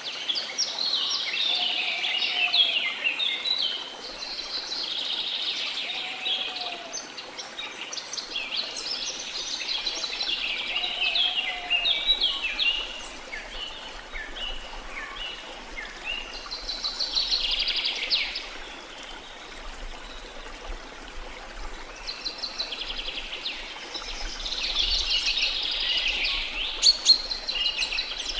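Tropical forest birds singing and calling over a steady rush of falling water, in waves of rapid chirping trills, with a few short low calls in the first half.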